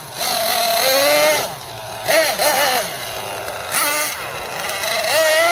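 Team Associated MGT 8.0 nitro RC monster truck's small two-stroke glow engine running at high revs, its pitch rising and falling several times as the throttle is opened and let off.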